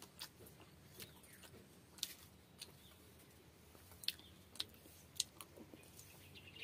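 Faint close-up eating sounds while she eats pakhala (fermented water rice) and small fish by hand: chewing, with scattered sharp clicks every second or so.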